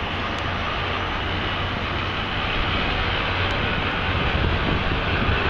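Steady city background noise: an even hiss over a low rumble, growing slightly louder near the end.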